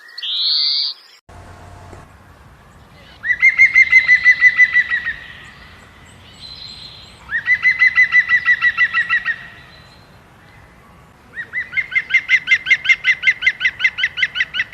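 A bird singing three bouts of a rapid trill, fast repeated notes at about seven a second, each bout lasting two to three seconds. A different short rising call is heard in the first second.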